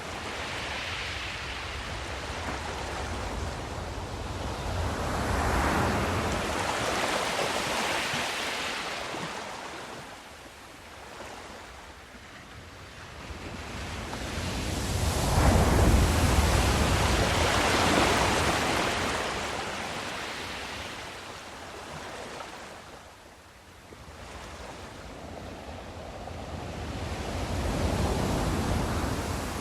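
Sea waves washing in slow swells, rising and falling about every ten seconds, with a deep rumble at the peak of each surge.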